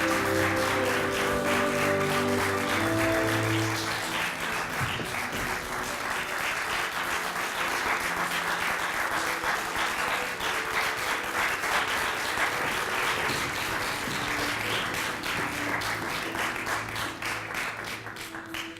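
Audience applauding over music with long held notes; the clapping stops suddenly near the end, leaving the music alone.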